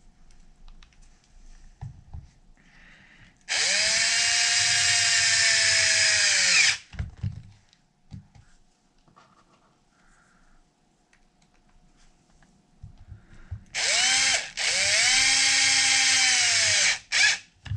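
Power drill/driver running screws into a 1/5 scale RC wheel's bead lock ring, in short runs: one long run, then a brief one, a longer one and a last short burst. Each run's motor whine rises quickly to pitch and drops away as it stops.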